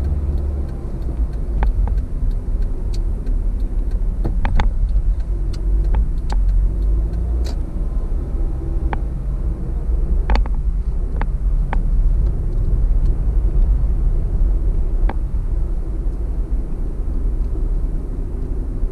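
Car interior road noise while driving: a steady low rumble from the tyres and engine, with a few light clicks or ticks scattered through it.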